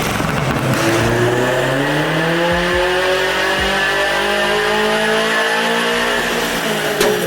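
Turbocharged Toyota GR86's 2.4-litre flat-four engine running at a fairly steady speed, its pitch drifting up slightly and then easing back.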